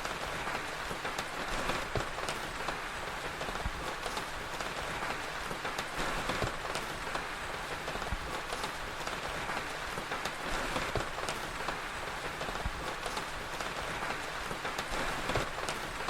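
Steady rain with scattered sharp crackles and pops from a wood fire.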